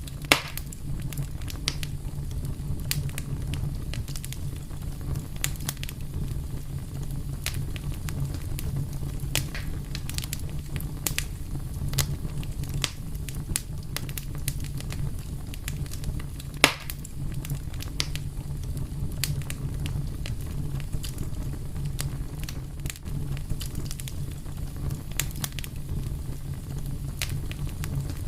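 Wood fire burning with a steady low rumble and irregular sharp crackles and pops, two louder pops about half a second in and about midway.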